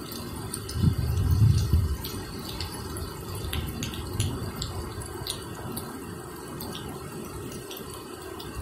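Rain falling steadily, with many individual drops landing close by as sharp ticks. A low rumble swells briefly about a second in.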